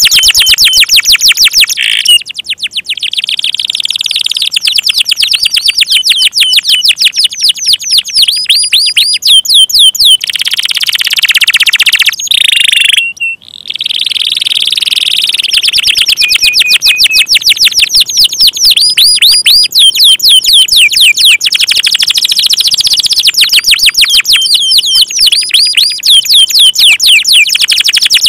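Domestic canary singing loudly in long, rapid trills of fast-repeated high notes, with a short break a little before halfway.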